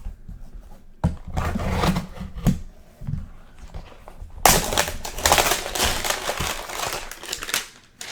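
A cardboard trading-card hanger box being torn open by hand and its pack pulled out: a short burst of tearing and rustling about a second in, then a longer, louder one from about halfway to near the end.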